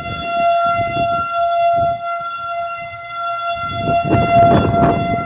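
Outdoor tornado warning siren sounding one steady, unwavering tone that swells and fades a little in loudness, over bursts of low rumbling noise.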